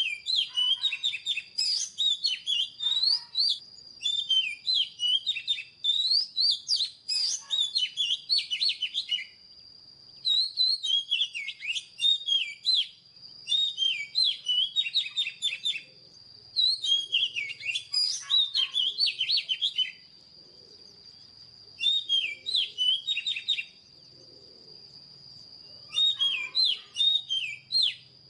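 Oriental magpie-robin singing: about seven phrases of rapid, varied whistles and chirps, each a few seconds long, with short pauses between them.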